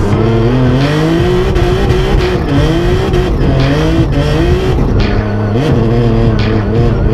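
BMW E30 drift car's engine revving, its pitch rising and falling again and again as the throttle is worked, over a steady hiss of tyre noise.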